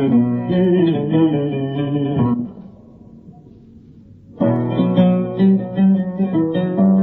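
Oud playing a solo instrumental passage; the playing breaks off a little over two seconds in, the last notes ringing away, and picks up again about two seconds later.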